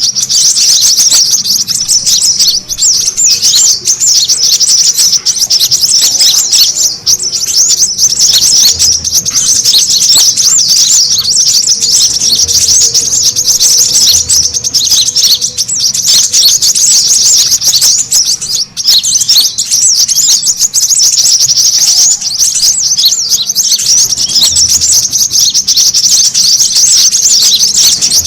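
Brown-throated sunbirds chattering noisily: a continuous, dense stream of rapid, high-pitched chirps and trills with no pauses.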